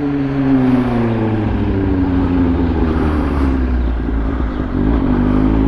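Kawasaki Ninja H2's supercharged inline-four running through a Brock's Performance Spark aftermarket exhaust, its revs easing down over the first couple of seconds and then holding steady with a deep low rumble.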